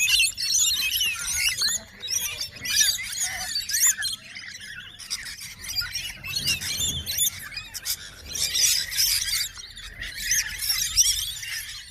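A flock of small birds chirping and squeaking, many high calls overlapping. The chatter thins out for a few seconds in the middle and swells again after about eight seconds.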